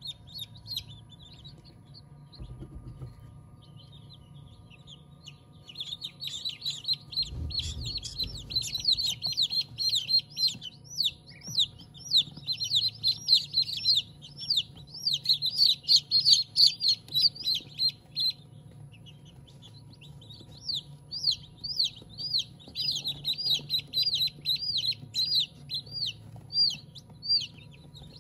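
Birds chirping: two long runs of quick, high-pitched chirps, many a second, loudest in the middle, over a low steady hum.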